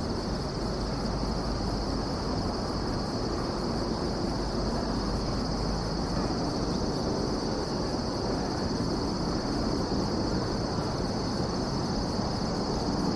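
Insects chirping continuously: a steady high trill with a fast, evenly pulsing chirp above it, over a steady low rumble.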